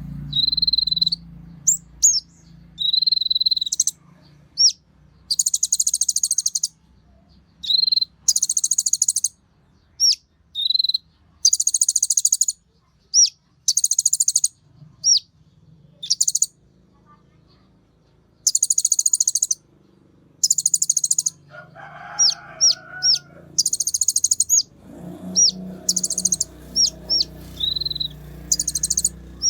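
Konin songbird singing: fast, high buzzy trills of about a second each, repeated every second or two, alternating with short whistled notes and sharp chips.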